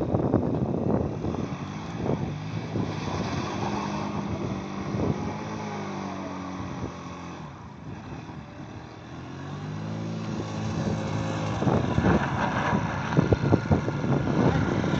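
A worn vehicle engine run hard: its pitch drops away in the middle, then climbs again as it is revved back up, with rattling knocks near the end.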